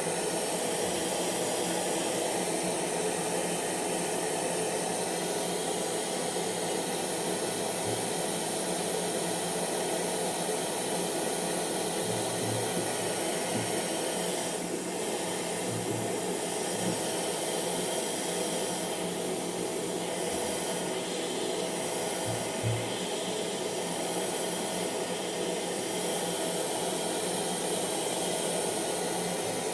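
Hair dryer running steadily: a constant whooshing noise of fan and blown air with a faint motor hum, unchanging in level.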